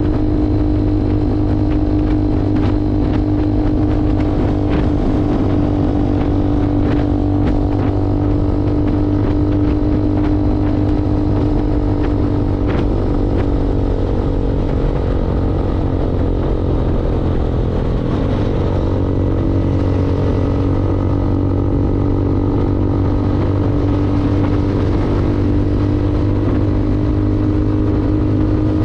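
Motorcycle engine running steadily while riding. About two-thirds of the way through, its pitch drops and then climbs again as the bike slows and speeds back up.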